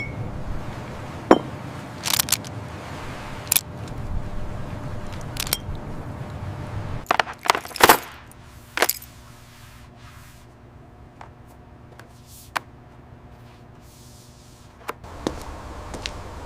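Scattered sharp metallic clinks and knocks, about a dozen, of small metal pieces being handled. They come thickest in the first half, with a cluster about seven to eight seconds in, over a low background that drops away after about eight seconds to a faint steady hum.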